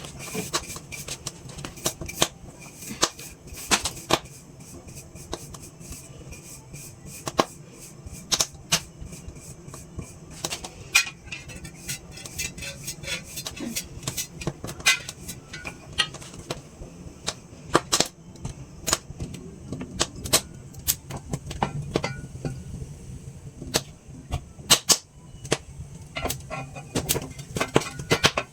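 Newly lit wood fire crackling and popping in a fireplace, with many irregular sharp snaps as the kindling catches and some of the wood spits. A faint steady low hum runs underneath.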